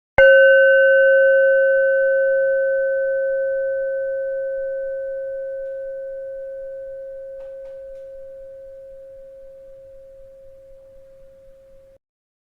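A bell struck once: a clear ringing tone with fainter higher overtones that fades slowly over about twelve seconds and then cuts off abruptly.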